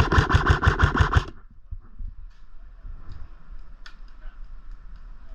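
Airsoft gun firing a rapid full-auto burst of about nine shots in just over a second, followed by a few faint clicks.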